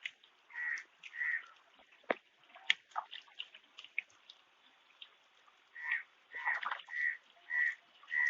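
Hybrid magur catfish feeding at the water surface, making a scatter of small splashes, pops and slurping clicks. From about six seconds a short, higher-pitched call repeats about twice a second.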